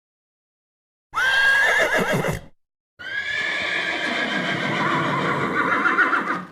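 Two animal calls, each cut in cleanly from silence: a short high call that wavers and fades about a second in, then after a gap a longer call that starts on a held pitch and breaks into a shaky, quavering sound before stopping.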